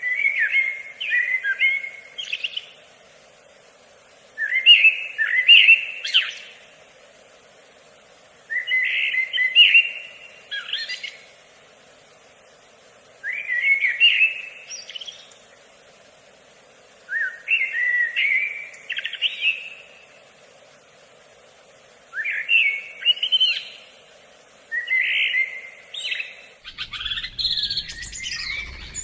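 A songbird singing the same short, warbled phrase over and over, one phrase of about two seconds roughly every four seconds, seven times. Near the end the sound changes abruptly to busier, overlapping chirping.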